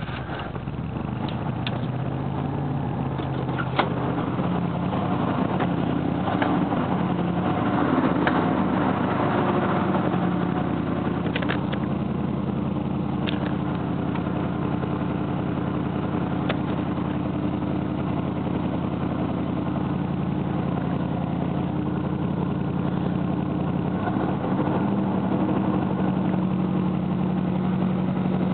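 1982 Chevrolet Caprice's 305 V8 idling cold, just after starting up for the first time in two weeks. The idle shifts slightly about eight to ten seconds in, then holds steady.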